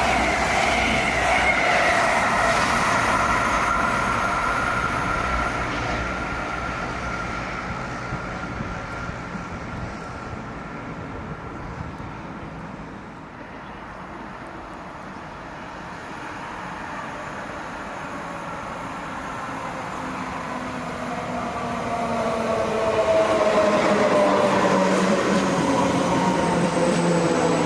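An SJ X40 double-deck electric multiple unit moving off, its motor whine falling in pitch and fading. Then an SL X60B commuter electric multiple unit comes in, growing loud over the last few seconds, its whine sliding down in pitch.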